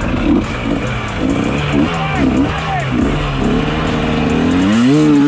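Dirt bike engine sound revving up and down in quick swells, climbing sharply near the end, over background music.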